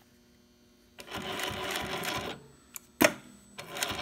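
A SEWPRO 1765 double-needle post-bed walking-foot sewing machine stitching in a short run of about a second, starting about a second in, then stopping. A sharp click follows about three seconds in, and the machine starts stitching again near the end.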